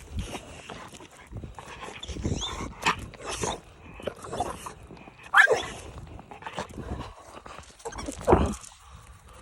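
American Bully dog barking: two loud calls that fall in pitch, about three seconds apart, with quieter scattered sounds in between.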